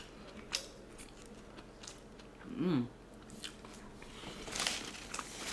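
Close-miked eating: a person chewing and biting food, with small wet mouth clicks. A short hummed vocal sound comes a little before the middle, and a louder crunchy rustle follows near the end.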